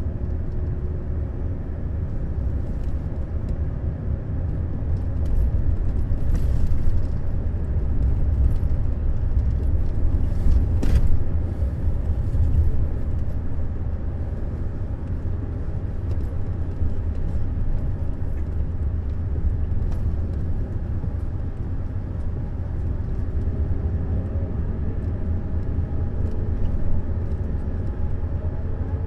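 Neoplan Skyliner N 1122/3C double-decker coach driving, its engine and road noise a steady low rumble that swells for a few seconds, with a short sharp click about eleven seconds in.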